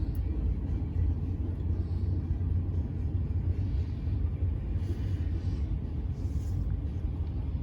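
Steady low rumble of a car in motion, heard from inside the cabin: road and engine noise with no sudden events.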